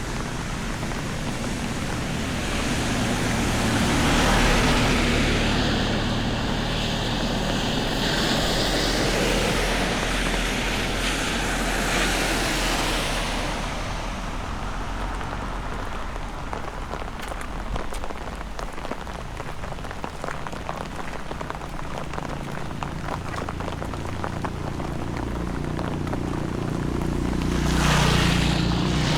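Steady heavy rain falling, with many separate drop hits heard through the middle stretch. A broader whooshing swell rises about four seconds in and again near the end.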